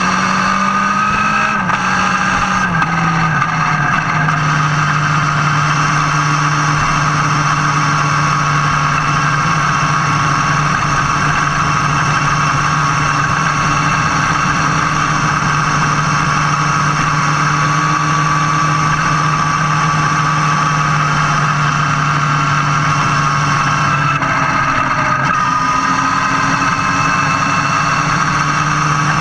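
Motorcycle engine running at steady road speed, heard close to the exhaust, with wind and road noise. The engine note steps down about two seconds in, and near the end it dips and then climbs again.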